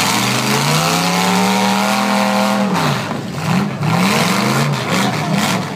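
Demolition derby car's V8 engine revving hard: the pitch climbs and holds high for nearly three seconds, then drops away. The engine is then blipped up and down several times in quick succession.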